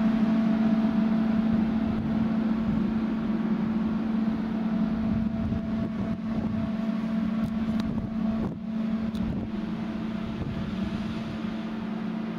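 Train at a station humming steadily on one unchanging low note, slowly getting a little quieter.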